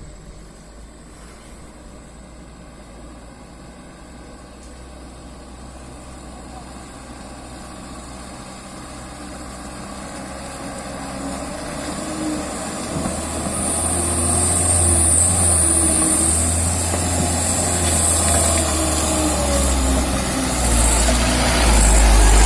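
Mitsubishi Canter light truck's diesel engine running with a low drone, getting steadily louder throughout. A stronger drone and a high whine come in after about halfway.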